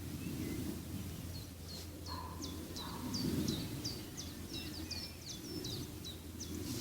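A small bird chirping a quick series of about a dozen short, high, downward-sliding notes over a steady low rumble.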